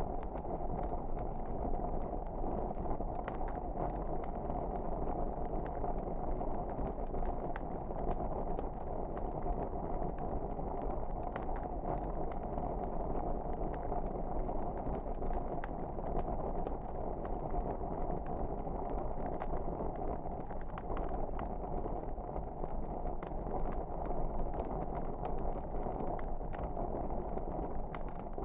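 Wood fire burning in a fireplace: a steady low rush with many small, irregular crackles and pops scattered through it.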